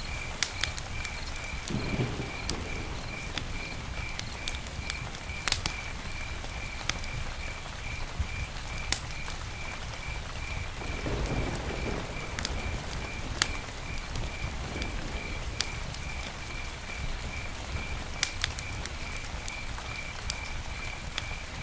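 Campfire crackling, with scattered sharp pops and a low rumble of flames that swells a couple of times. Behind it a cricket chirps steadily in an even, regular pulse.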